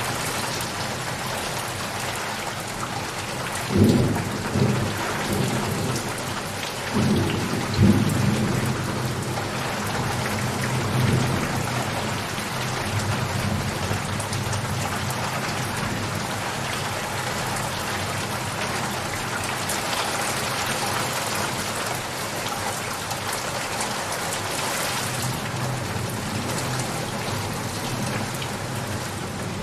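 Steady heavy rain falling, with rolls of thunder rumbling about four seconds in and again around seven to eleven seconds in.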